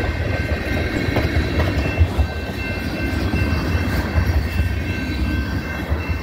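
Freight train of loaded tank cars rolling past: a steady rumble of steel wheels on rail with a few sharp clacks, and steady high tones held over it.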